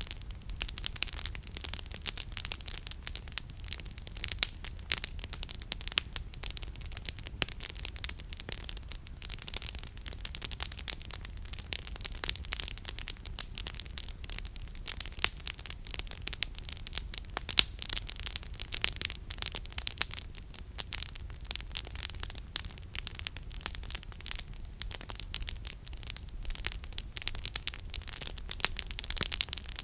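Campfire of burning firewood crackling, with rapid, irregular snaps and pops throughout over a steady low rumble.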